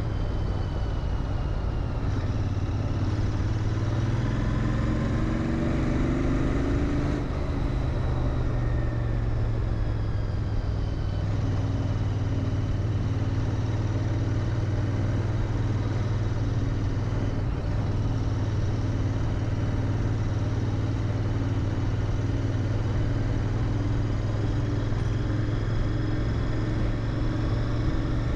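Royal Enfield Interceptor 650's parallel-twin engine running through its stock mufflers at a steady riding pace, rising briefly in pitch about five seconds in.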